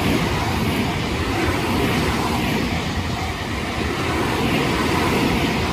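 Tobu Tojo Line train passing over a level crossing, a steady rumble and rush of wheels running on the rails.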